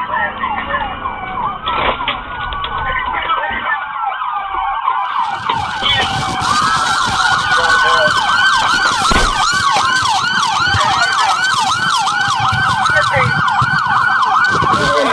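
Police car sirens sounding during a pursuit, with more than one siren wailing and overlapping at first, then a fast yelp cycling about three times a second from about six seconds in.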